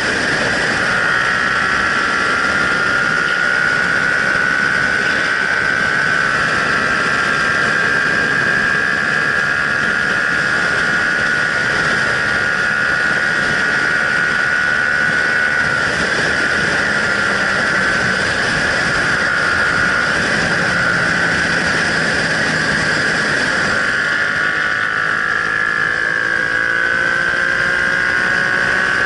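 Yamaha MT-07's parallel-twin engine running through an aftermarket exhaust, holding a steady, even note with only a slight change in pitch past the middle.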